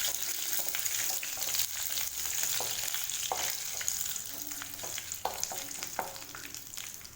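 Oil sizzling in a kadai as a tempering of mustard seeds, dals, cumin, curry leaves and cut dried red chillies fries, with a spatula stirring and scraping the pan and scattered sharp crackles.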